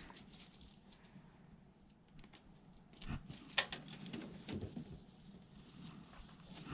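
Scattered light clicks and taps of parts and tools being handled, with a sharper click about three and a half seconds in.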